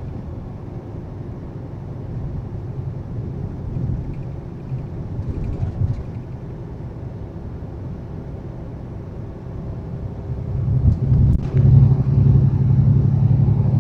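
Western Star semi truck's engine and road noise heard inside the cab while driving, a steady low rumble that grows louder about ten and a half seconds in.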